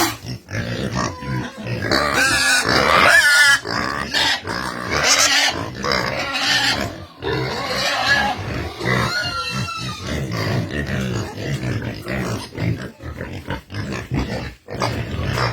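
Pigs grunting continuously, with high squeals around two to three seconds in and again about nine seconds in.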